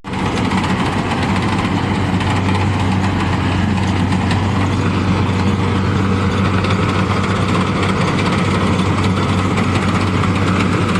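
Rice combine harvester's engine running steadily with a low, even hum and mechanical clatter.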